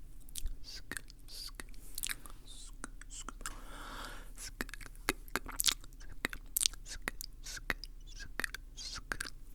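Close-miked wet mouth sounds: rapid, irregular clicks and smacks of lips and tongue, with a soft breathy hiss about four seconds in.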